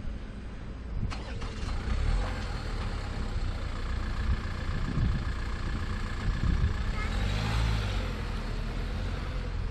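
A road vehicle's engine pulling away and driving over the level crossing, louder as it passes near the end.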